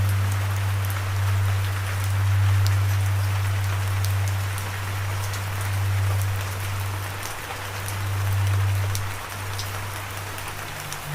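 Steady rain with scattered sharp drop ticks, over a low sustained drone note that slowly swells and fades; near the end the drone moves up to a slightly higher note.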